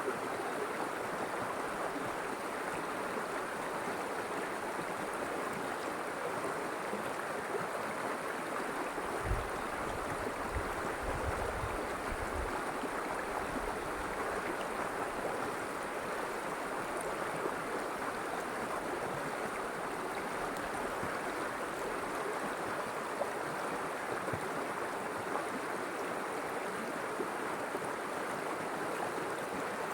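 River water flowing steadily with a continuous rushing noise. A few brief low rumbles come through about a third of the way in.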